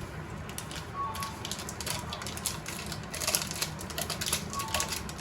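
Irregular sharp clicks and light clatter, busiest about three seconds in, over a steady low hum.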